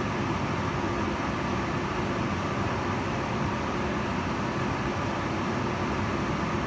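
Kitchen range hood fan running steadily: an even rushing air noise with a low hum underneath, unchanging throughout.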